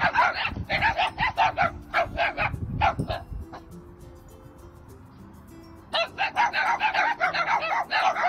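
Dogs barking in rapid volleys, several barks a second, stopping about three seconds in and starting again about six seconds in, over background music.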